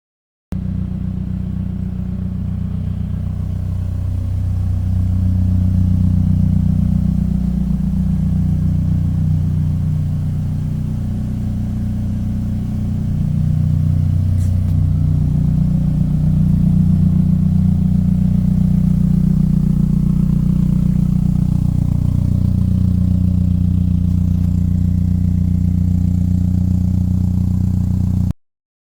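1991 Toyota MR2's engine running steadily, getting louder about five seconds in, easing off for a few seconds in the middle and picking up again.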